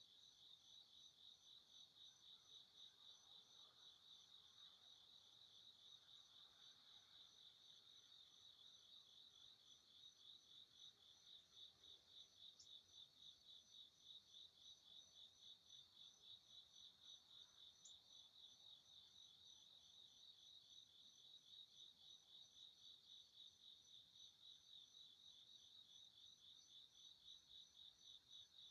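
Faint, high-pitched cricket chirping in an even rhythm of about three chirps a second.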